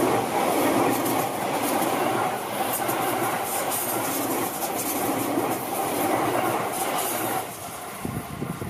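Seibu 001 series Laview limited-express electric train passing close by: the steady rumble of wheels on rail with scattered clicks. The sound drops away abruptly about seven and a half seconds in as the last car clears.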